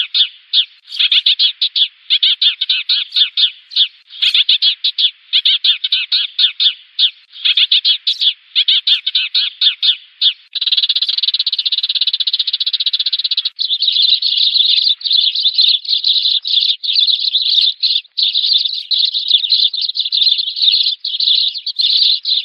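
Sparrows chirping in a dense, rapid chatter: a flock-calling decoy recording of the kind used to lure sparrows to a trap. Short runs of quick chirps broken by brief pauses give way, about ten seconds in, to an almost unbroken chatter.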